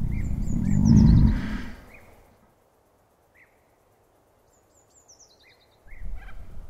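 Songbirds singing: a high run of notes falling in steps, heard twice, among short chirps repeated every second or so. A low rumble swells and fades over the first two seconds, and low noise comes back near the end.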